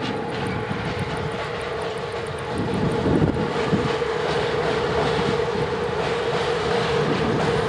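CFR electric locomotive hauling a container train onto a steel girder bridge: a steady whine from the locomotive over the rumble of the wheels, getting louder about two and a half seconds in as it comes onto the bridge.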